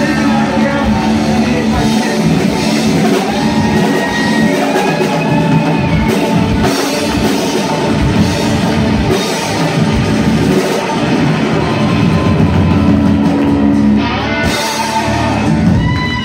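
Rock band playing live: drum kit and electric guitars.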